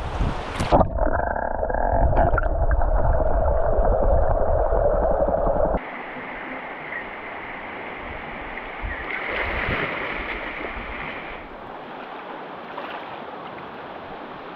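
Running water of a cold mountain stream. It is loud and muffled with a low rumble for about six seconds, then changes abruptly to a lighter, steady flow.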